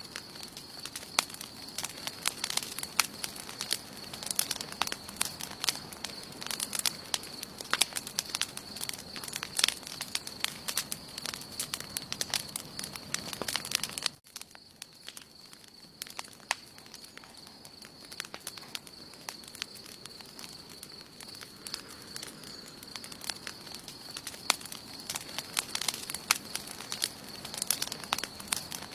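Wood campfire crackling, with many sharp pops and snaps over a steady high-pitched hum. About halfway through the sound drops away suddenly and the crackling is sparser for a few seconds, then builds again.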